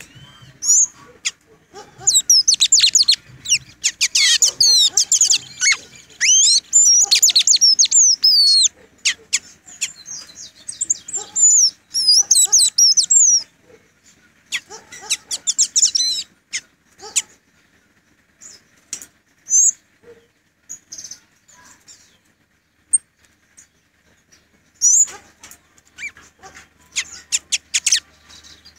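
Caged pet bird singing: fast runs of high warbling chirps in the first half, then only scattered single chirps.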